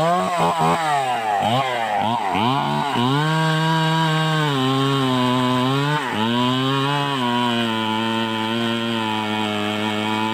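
Stihl 038 single-cylinder two-stroke chainsaw revved in quick blips for about three seconds, then held at high revs, with a brief dip about six seconds in before running on slightly lower.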